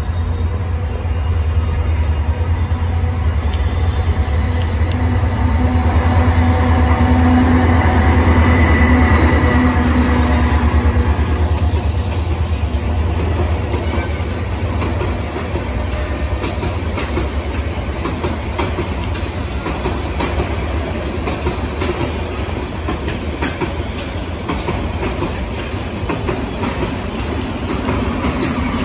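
Bangladesh Railway intercity passenger train passing close by. A deep, loud drone swells to its loudest in the first third, then the coaches roll past with a rhythmic clickety-clack of wheels over rail joints.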